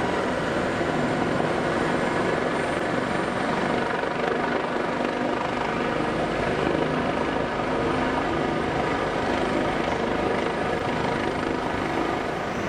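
Jet engines of an Airbus A320 airliner as it comes in to land, a steady, even noise with faint steady whining tones over it.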